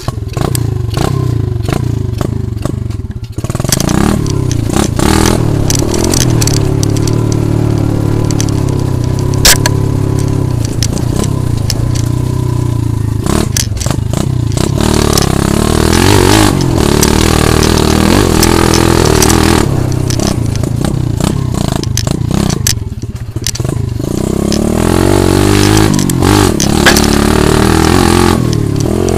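80cc pit bike engine running and revving up and down as it is ridden, with frequent clattering and scraping clicks over it. It is quieter for the first three seconds or so, then loud.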